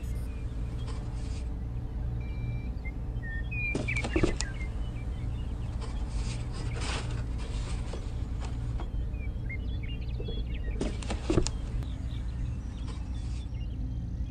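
Small clay miniature brick wall pieces clicking and scraping against each other as they are set in place, in three short bursts. Underneath is a steady low hum and faint bird chirps.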